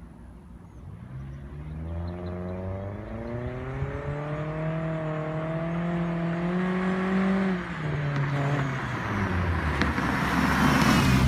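2014 Toyota Corolla's four-cylinder engine through a straight-through exhaust with the resonator and muffler deleted, accelerating and getting steadily louder. The pitch climbs, drops suddenly about seven and a half seconds in, then climbs again as it comes on loudest at the end.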